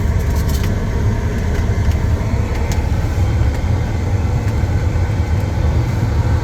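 Semi truck's engine and road noise heard from inside the cab while driving slowly: a steady, deep rumble.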